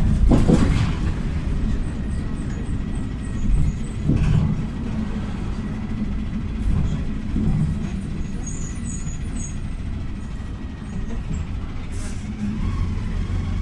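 Inside a PAZ 320414-04 Vektor city bus on the move: its YaMZ-53423 natural-gas engine and road noise make a steady low rumble. A louder hiss comes near the start.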